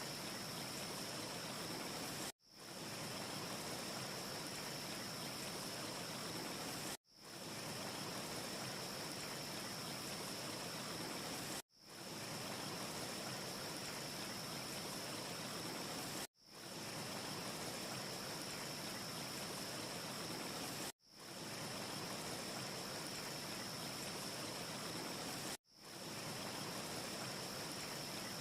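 Looped wind ambience: a steady rushing hiss with a thin high whistle-like edge, repeating as a short loop that cuts out abruptly about every four and a half seconds and fades straight back in. No fire crackle stands out.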